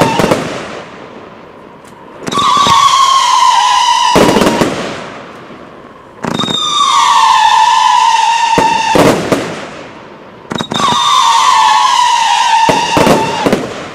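Kingsmen Evolution firework compound firing in repeated volleys: three times, a loud whistle, falling slightly in pitch, lasts about two seconds and ends in sharp bangs and crackling as the shots burst. A new volley follows about every four seconds.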